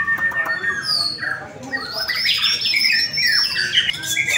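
Several white-rumped shamas singing at once, a dense tangle of fast whistled phrases and sweeping notes with a brief lull about a second and a half in.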